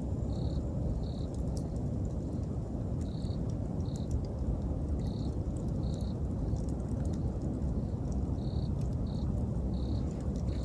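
Bonfire burning with a steady low rush and faint crackling pops, while an autumn insect chirps in short high notes at irregular intervals, about every half second to a second and a half.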